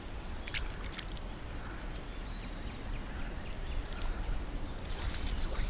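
Quiet outdoor ambience: a steady high hiss and a low rumble, with a few faint clicks about half a second in and again near the end.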